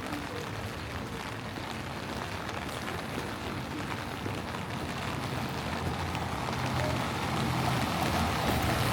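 Steady rain falling on a city street, an even hiss of drops. A low rumble grows louder over the last few seconds.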